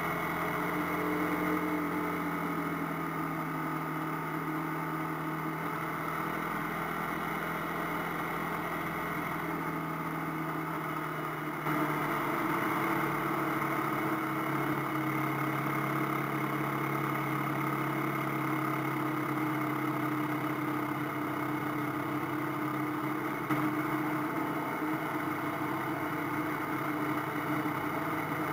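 AKT TT 250 Adventour motorcycle engine running steadily while riding along, mixed with wind and road noise. About twelve seconds in, the engine note shifts and gets a little louder.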